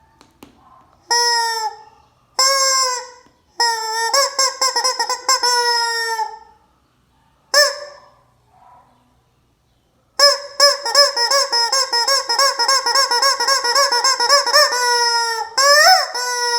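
Hen squawking loudly in harsh, stuttering repeated calls. It calls in short bouts with pauses at first, falls silent briefly, then calls almost without a break for the last six seconds.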